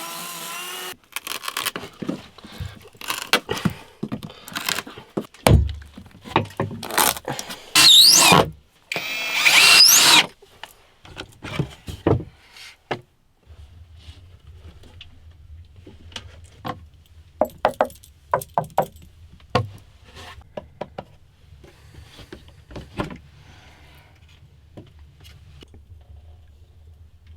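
Irregular knocks, scrapes and rubbing of hand work with tools and wood, with two loud stretches of high, curving squeaks about eight and ten seconds in. After that come scattered quieter clicks over a low steady hum.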